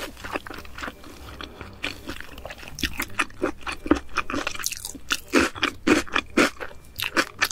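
A mouthful of nigiri sushi being chewed: a quick run of small crunching clicks, louder and busier after about three seconds.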